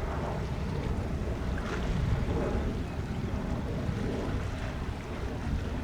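Wind buffeting the microphone over a steady low rumble of distant jet engines.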